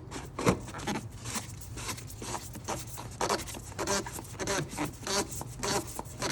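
Oil filter housing cap being threaded back on: a string of short rasping, scraping strokes, about one or two a second, as the plastic cap and its threads turn.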